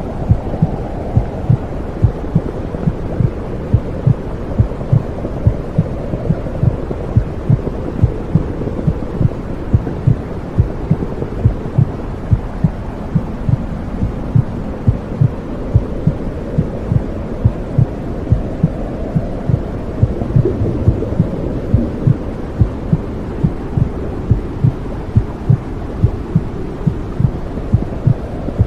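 Womb sound for settling a baby: a steady heartbeat of regular low thumps over a constant low whooshing rush.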